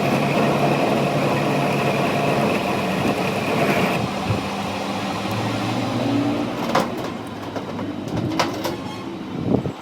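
A machine runs with a steady whine that cuts off a few seconds in, followed by three sharp knocks.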